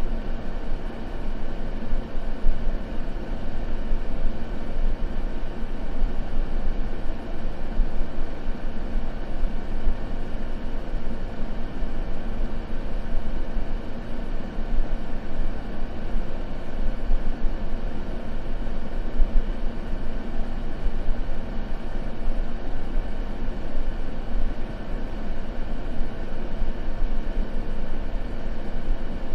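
Steady synthetic white noise, a deep, even rush that is heavier in the low end than the high, with no crackles or changes.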